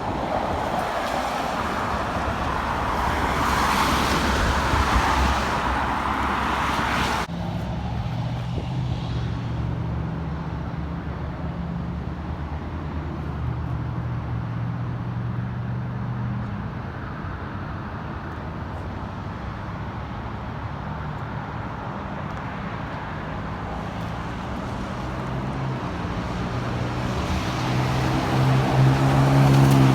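Road traffic: a passing vehicle's tyre hiss builds and then cuts off abruptly about seven seconds in. A steady low engine hum follows, and another vehicle grows louder near the end.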